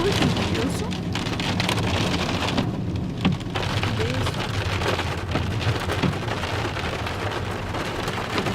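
Rain falling: a dense, steady patter of drops hitting surfaces over a low rumble.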